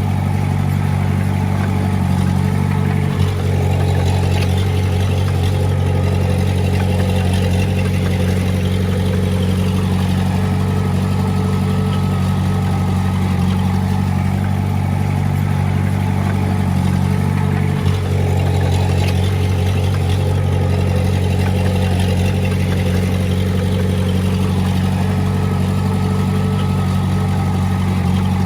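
Diesel engine of heavy earthmoving equipment running steadily. There is a short click about three seconds in and another about eighteen seconds in, each followed by a slight change in the engine's higher tones.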